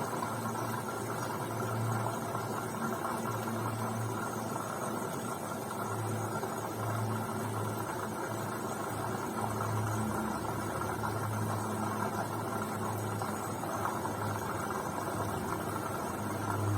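Beko washing machine running mid-cycle: a low motor hum that swells and fades every second or two over a steady rushing noise.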